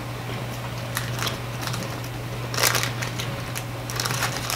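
Close-miked chewing and lip smacking on chicken wings, a scatter of sharp wet clicks that cluster a little past the middle, over a steady low hum.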